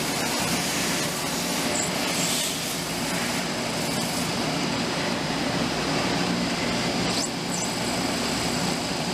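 CNC milling machine running and cutting, a steady machine noise with a brief high-pitched glide about seven seconds in.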